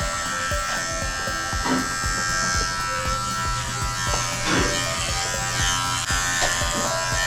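Electric dog clippers running steadily as a dog's coat is shaved to an even length.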